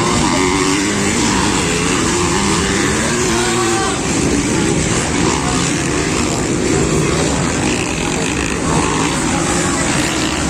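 Several motocross bike engines revving, their pitch rising and falling as they race, over a steady din.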